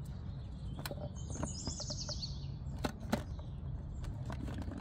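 A small bird's short trill of quick high chirps, about a second in, over a steady low background rumble, with a few light clicks.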